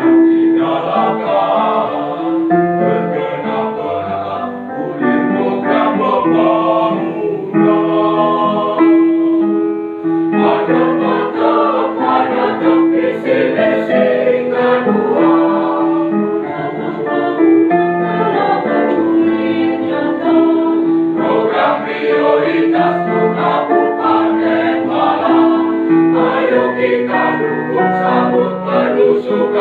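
A choir singing in parts, with many voices on held notes and shifting chords.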